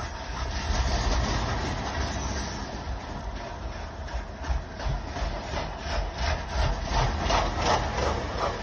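Loaded coal train's cars rolling past: a steady low rumble of steel wheels on the rails, with a run of clicking and clacking from the wheels in the second half.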